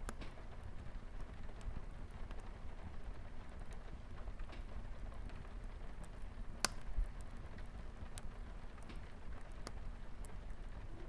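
Light rain pattering on a window, with a wood fire crackling under a steady low rumble: scattered sharp pops, one louder than the rest about two-thirds of the way through.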